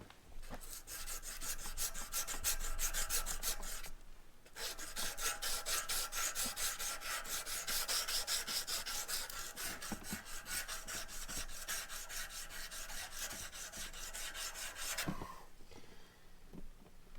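Emery cloth rubbed rapidly back and forth on a steel shaft, polishing and cleaning it up before the new pump goes on. The strokes come fast and even, with a short pause about four seconds in, and stop about fifteen seconds in.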